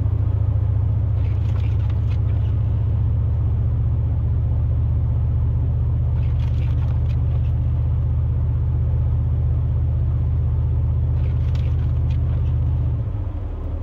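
Steady low drone of a pickup truck's engine and tyres heard from inside the cab while driving. It drops away near the end as the truck slows.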